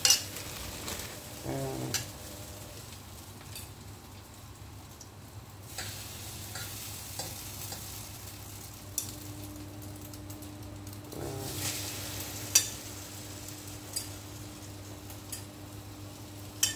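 Egg-dipped bread slices frying in butter in a pan, sizzling steadily, with the sharp clink of a metal fork against a ceramic bowl every few seconds.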